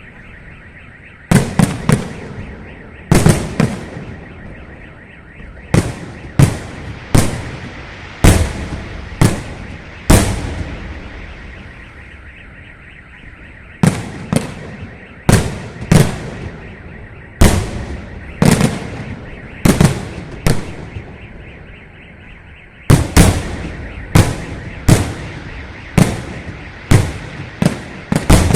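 Fireworks salute: loud aerial shell bursts going off every second or two, often two or three in quick succession, each bang trailing off in an echo, with a lull of a few seconds midway.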